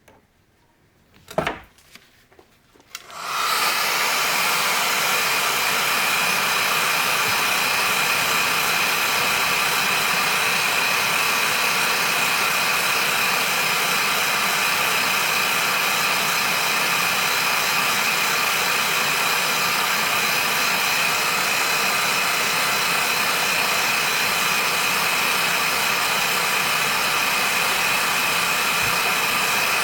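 A click about a second in, then a 2-kilowatt heat gun starts up about three seconds in and runs steadily: a blowing hiss with a steady high whine. It is heating a new crankshaft main bearing so that it expands enough to slip onto the chainsaw's crankshaft.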